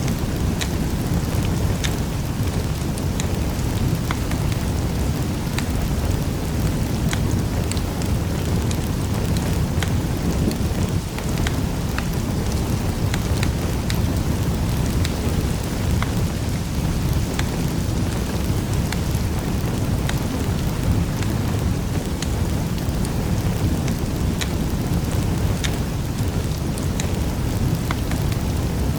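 Wood fire crackling in a fireplace: a steady low rumble of the burning fire with scattered small pops and snaps.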